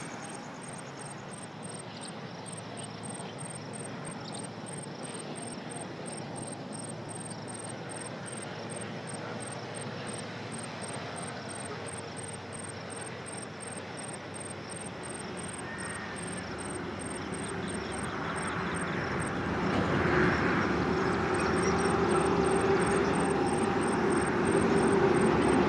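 Passenger train running along the line, a steady rumble that swells and grows louder about two-thirds of the way in as it comes nearer. Insects chirp in a fast, even rhythm throughout.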